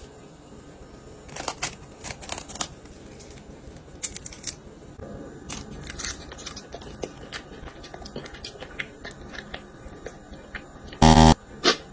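Close crunching and crackling of something brittle being bitten and chewed: a run of sharp irregular cracks. Near the end, a short loud voiced sound.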